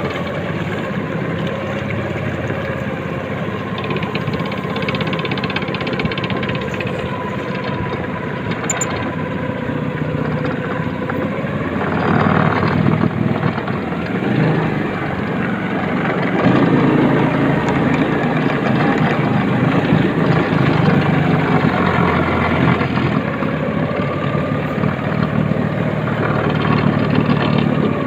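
Motorcycle engine running along a rough trail, its note rising and falling and getting louder about halfway through.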